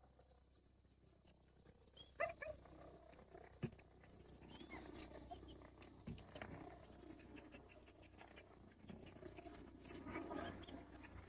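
Belgian Malinois whining faintly and panting, with two sharp knocks about two and three and a half seconds in.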